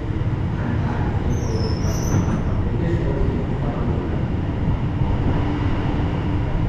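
Freight train running past on the track: a steady, heavy rumble, with a few brief high-pitched squeals about one and a half to two seconds in.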